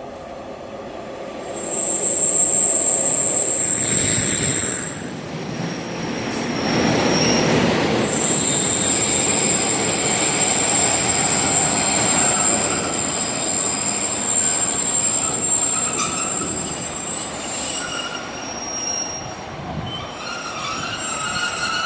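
Train moving along the track, with rumbling running noise and a high-pitched wheel squeal that sounds twice, briefly near the start and then for about ten seconds.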